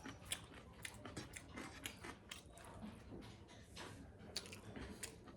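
A person chewing food close to the microphone, with irregular crisp crunches, like raw salad vegetables being bitten and chewed.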